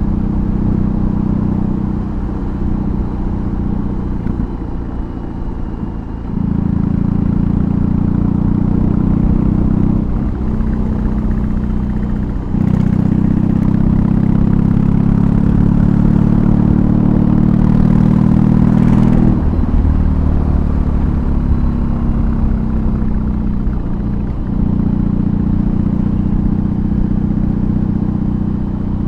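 BMW R18's 1802 cc boxer twin with an aftermarket exhaust under way, its deep exhaust note rising and falling with the throttle. There are brief dips in the note about 10, 12 and 24 seconds in, and the engine pulls harder in two stretches, from about 6 to 10 seconds and from 12 to 19 seconds.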